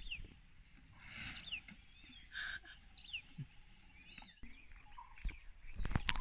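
Outdoor ambience with scattered bird calls: short high chirps and whistled notes, some falling in pitch. Near the end, wind buffets the microphone in uneven gusts.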